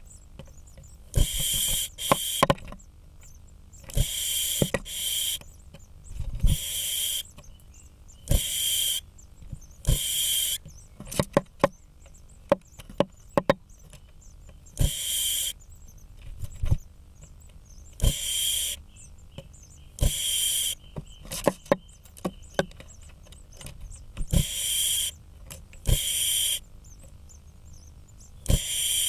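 Great spotted woodpecker pecking at a blue tit nest, heard as sharp knocks on wood, among repeated short hissing bursts about every two seconds.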